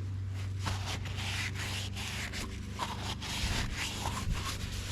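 Repeated scraping and rubbing strokes on the scooter starter's parts, about two a second, over a steady low hum.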